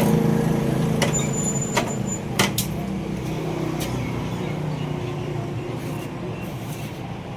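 A motor vehicle engine running steadily, easing off slightly, with a few sharp clicks or knocks in the first four seconds.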